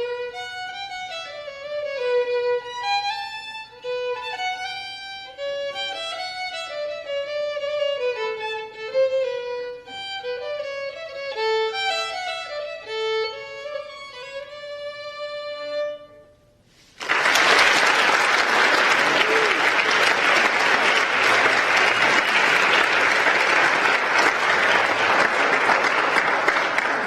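A violin playing a melody that ends about sixteen seconds in; after a brief pause the audience applauds, thinning to a few scattered claps near the end.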